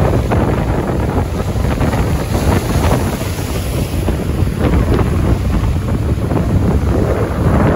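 Wind buffeting the microphone in a steady, heavy rumble, with rain falling in many small pattering hits.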